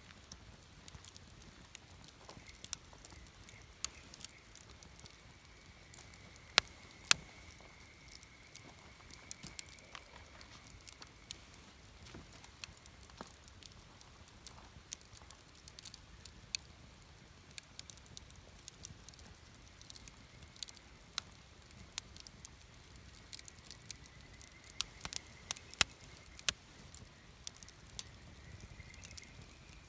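Wood campfire crackling, with irregular sharp pops and snaps, a couple of louder ones about seven seconds in. A faint, thin high tone drifts in and out behind the crackle.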